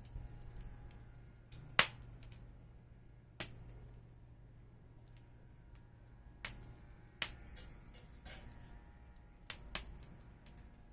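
Wood fire crackling: sparse, sharp pops from the burning firewood, about six in all, the loudest about two seconds in.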